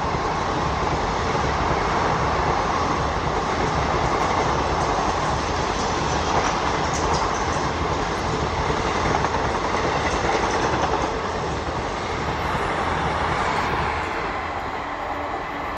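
Express train coaches rolling past at speed: a steady rumble and rattle of wheels on the rails with clickety-clack over the rail joints, easing off near the end as the last coach goes by.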